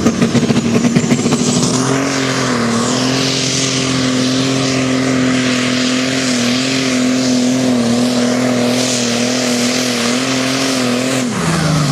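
Pulling tractor's engine running flat out down the track, held at a steady high pitch with a loud rushing noise on top. Near the end the pitch falls away sharply as it comes off the throttle.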